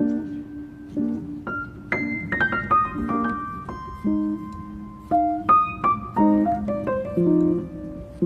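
Piano music: single notes and chords played in a gentle melody, with a quick run of notes about two seconds in.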